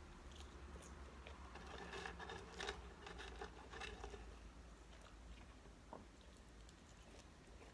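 Close-miked eating: chewing and biting food, with wet mouth clicks and small crunches, busiest in the middle.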